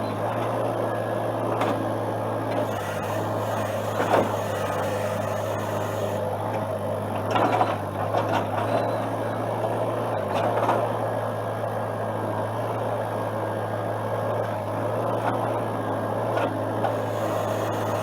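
Excavator's diesel engine running steadily, with a few sharp knocks over the hum.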